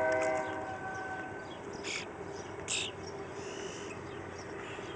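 A distant train horn sounding a held chord fades out in the first second or so. Two short, high bird chirps follow, about two seconds in and again a moment later.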